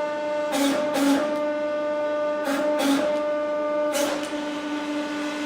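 Hydraulic press running with a steady pitched hum while it slowly crushes a safety shoe's toe cap. Sharp cracks and clicks come several times as the cap gives way.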